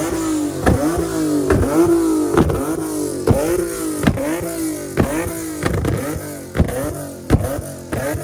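Car engine revved over and over in a steady rhythm, its pitch dipping and climbing between sharp cracks that come a little more than once a second.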